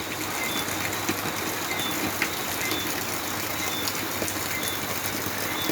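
Steady rain falling, an even hiss with scattered drips, with crickets chirping in short, evenly spaced high pulses about twice a second. A low steady hum runs underneath.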